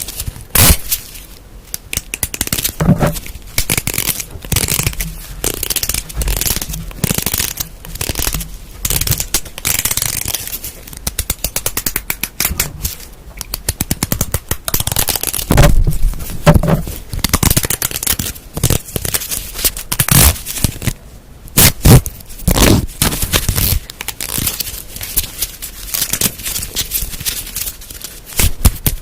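Close-miked ASMR object sounds: rapid tapping, scratching and crackling on objects in dense clusters with brief pauses.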